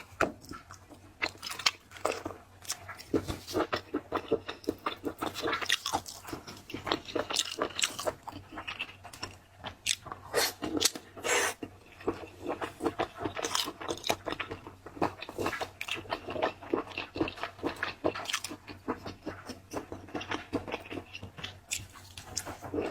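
Close-miked eating of shellfish: irregular crunching, biting and chewing sounds, with many sharp crackles.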